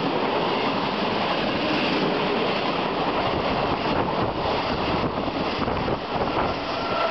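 Italian regional train's passenger coaches running past close by, a loud, steady noise of wheels on the rails.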